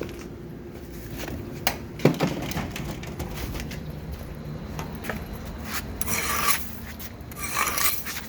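Broom sweeping scattered bird feed and corn kernels: a few sharp knocks, then two scratchy brushing strokes near the end.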